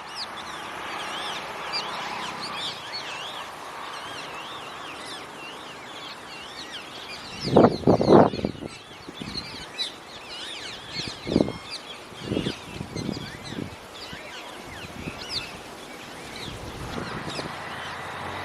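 Birds calling: a steady high twittering throughout, with a loud double call about eight seconds in and several shorter calls after it.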